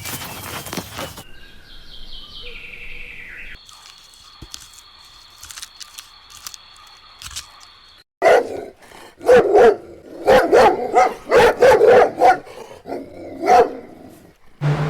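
An animal giving a run of short, loud calls, about two a second, through the second half. Before that come quieter sounds, including a steady high tone with scattered clicks.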